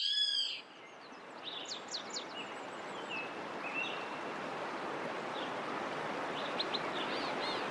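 Birds calling in forest: a loud arched call at the start, then scattered short chirps and whistles, over a steady rush of flowing water that slowly grows louder.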